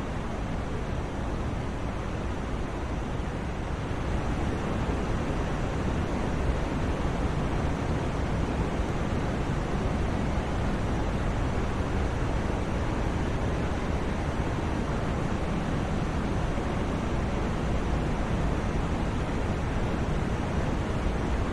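Steady white-noise sleep sound, an even hiss with no rhythm or pitch, heavier in the low end than the high. It swells slightly about four seconds in, then holds level.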